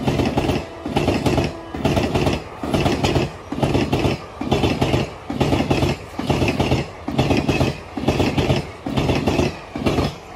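Passing ICF passenger coaches, their wheels clattering and rumbling over the rails close by in a steady beat of about one and a half strong pulses a second.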